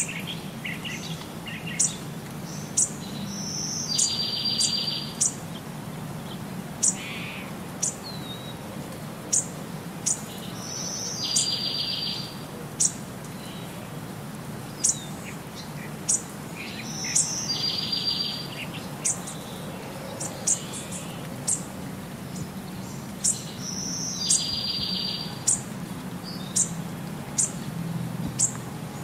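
Birdsong: many short, sharp chirps, and a buzzy trill lasting about a second that comes back every six or seven seconds, over a low steady hum.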